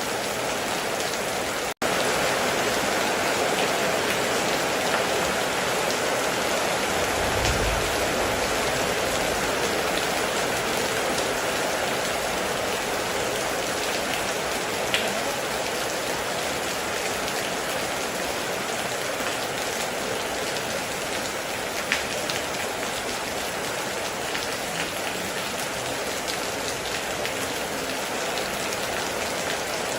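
Heavy rain drumming steadily on a metal roof, with a few sharper drop strikes standing out. The sound cuts out for a split second near the start, and a brief low rumble comes in about seven seconds in.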